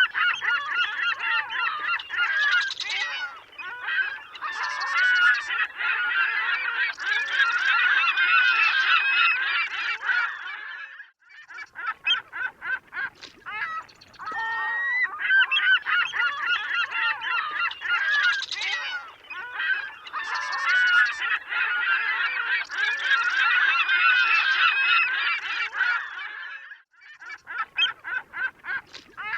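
A flock of seagulls calling, many harsh overlapping calls at once, with brief lulls about eleven seconds in and near the end. The same stretch of calls repeats after about fifteen seconds, as a looped recording would.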